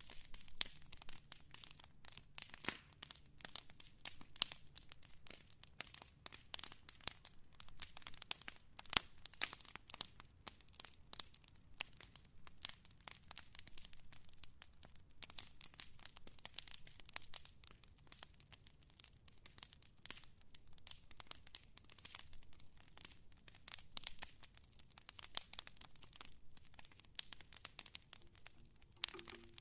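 Wood fire crackling: a dense, irregular run of small pops and snaps over a faint low hiss, with one louder pop about nine seconds in.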